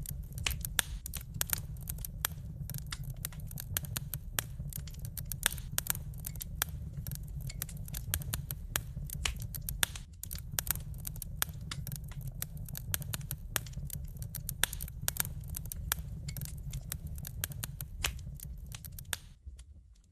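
Wood fire in a fireplace crackling and popping, many small irregular snaps over a low steady rumble of the flames, fading out near the end.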